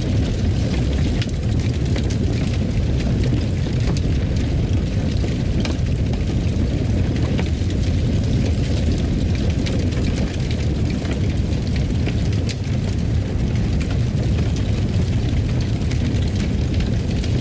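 Fireplace burning: a steady low rumble of flames with scattered sharp crackles and pops from the wood.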